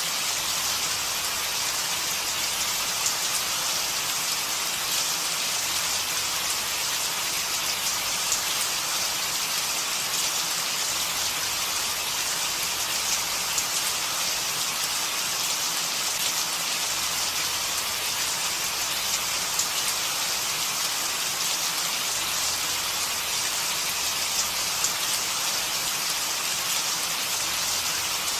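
Steady rain falling, a continuous hiss with scattered faint drop ticks.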